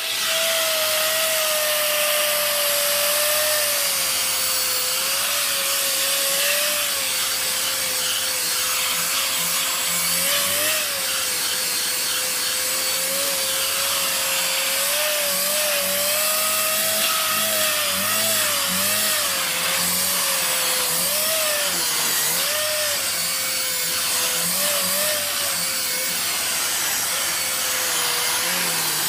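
Dyson DC54 Animal vacuum cleaner running steadily, its motor whine wavering slightly in pitch.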